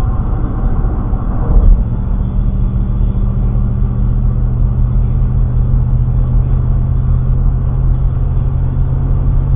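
Car driving at highway speed, heard inside the cabin: a steady low drone of engine and road noise, with a brief louder low thump about one and a half seconds in.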